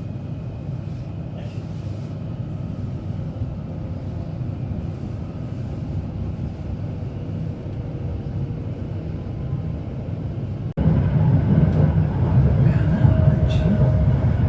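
Merseyrail Class 777 electric train heard from inside the carriage: a steady low running rumble with a faint whine above it. About eleven seconds in it cuts abruptly to a louder stretch of the same rumble.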